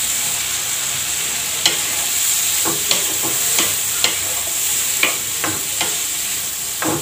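Wooden spatula stirring chopped snake gourd as it fries in spiced oil in a pan: a steady sizzle, with the spatula knocking against the pan now and then.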